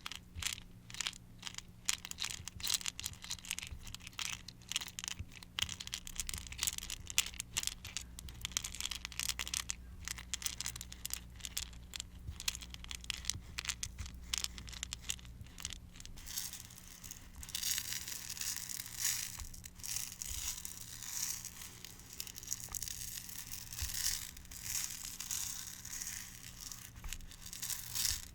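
Close-up ASMR crackling. A dense run of sharp crackles fills the first half, and about halfway through it turns into a softer, steadier crinkling.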